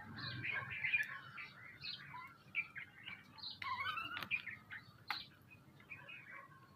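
A mixed group of small birds chirping at once, many short overlapping chirps and a few warbled calls, with a couple of sharp ticks in between.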